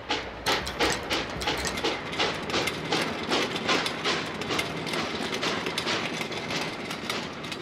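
Animated train-factory sound effect of a train on rails: rapid, uneven metallic clicks and clanks over a faint low hum.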